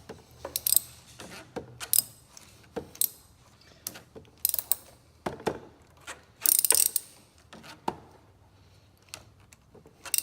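Hand ratchet on a long extension clicking in short irregular spurts, with light metallic clinks of the tools, as a spark plug is being loosened and backed out.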